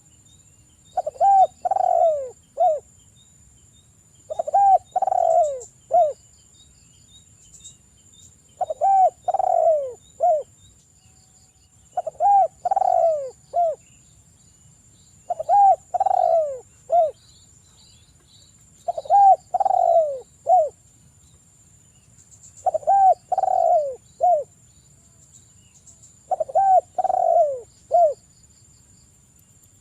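Derkuku (Sunda collared dove) cooing: repeated phrases of three or four falling coos, one phrase about every three and a half seconds.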